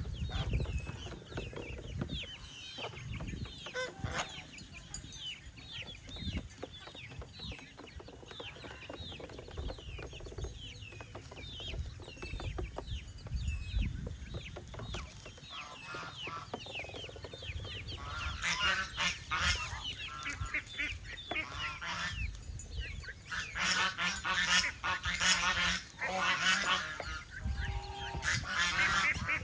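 Young birds peeping in many short, falling cheeps, then geese honking in loud repeated calls from about two-thirds of the way through.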